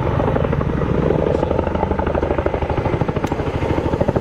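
Tandem rotors of a Boeing CH-47 Chinook helicopter beating in flight, a steady rapid pulsing of blade slap over the engine noise.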